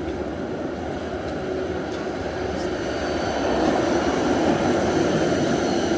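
Helsinki tram running on its rails: a rumble that grows louder through the first few seconds and then holds, with thin high steady tones coming in about halfway through.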